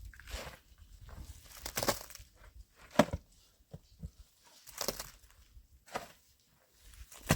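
Irregular knocks, snaps and rustling from something being handled, with one sharp crack about three seconds in.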